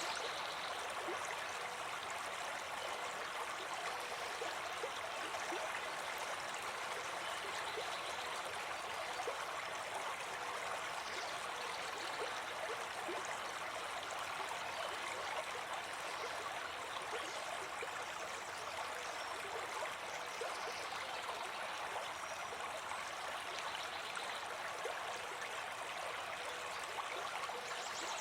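Brook babbling: a steady, unbroken rush of flowing water with fine bubbling and splashing within it.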